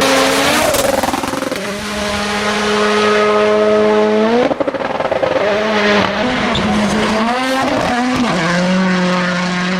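Rally car engine running at high revs. The pitch holds level for a couple of seconds at a time, sweeps up sharply and breaks off about halfway through, wavers up and down, then holds steady again near the end.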